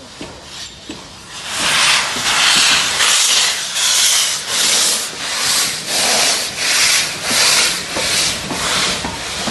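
North British 0-6-0 steam locomotive working, with its exhaust chuffing at about two beats a second. The chuffs start about a second and a half in and keep an even rhythm.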